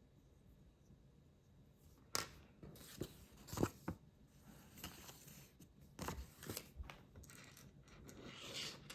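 Plastic building bricks being handled and pressed together: a few sharp clicks, the loudest about three and a half seconds in, then a rustle near the end.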